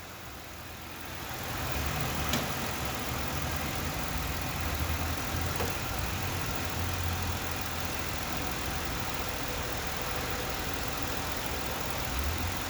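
Car engine idling steadily, growing louder over the first couple of seconds, with one sharp click about two seconds in.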